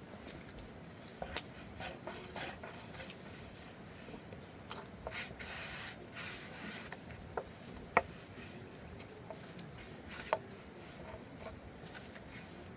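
Rubbing and scraping handling noises, with a few sharp knocks, the loudest about eight seconds in.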